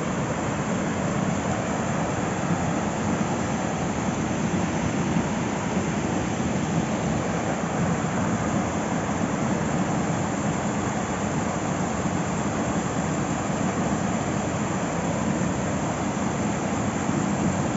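Steady rush of flowing water from a stream or waterfall, an even, unbroken noise.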